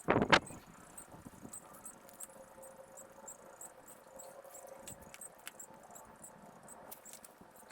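A sharp double knock near the start, then faint scattered clicks and a faint high chirping repeating about three times a second.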